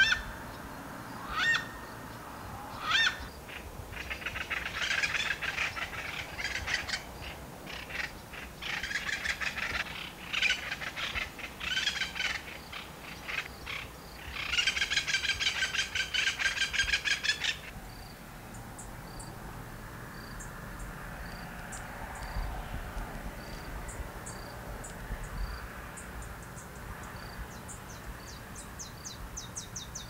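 Birds calling: three loud rising calls in the first few seconds, then long runs of rapidly repeated calls that stop suddenly about 18 seconds in. After that comes a faint insect ticking about once a second, with thin high chirps.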